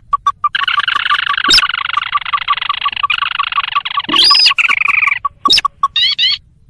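Recorded lure call of the sintar, a ruddy-breasted crake: a rapid, even run of short notes about seven a second. From about half a second in until about five seconds it is overlaid by a dense, layered churring call, and a few short rising notes come near the end.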